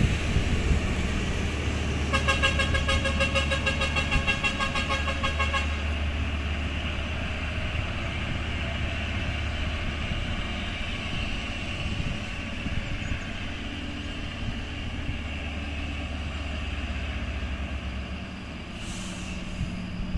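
Heavy diesel truck engines running steadily on a climb. From about two seconds in, a rapidly pulsing, pitched horn-like tone sounds for about four seconds. The engine drone drops away near the end.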